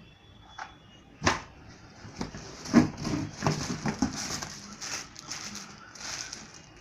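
Knocks and rustling from handling a vacuum cleaner and its packaging: a few sharp knocks, then a run of clattering and rustling that dies away near the end.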